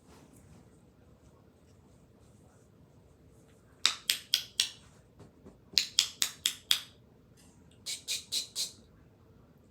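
A small pet animal calling in three quick bursts of short, sharp squawks, five or six in each, about five a second, the last burst quieter.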